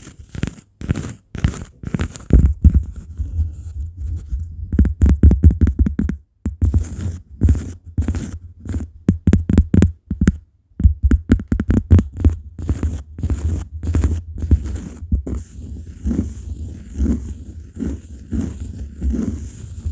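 Close-miked ASMR cork sounds: fingers rapidly tapping and scratching on cork, a fast uneven run of soft taps with deep thuds, in clusters broken by short pauses.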